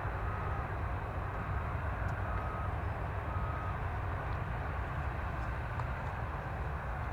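Steady low rumble of a jet airliner's engines. A few short, faint high beeps sound in the first few seconds.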